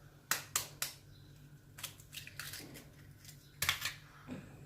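A few sharp clicks and taps of kitchen work with a bowl: three quick ones early on, some faint ones in the middle and a small cluster near the end.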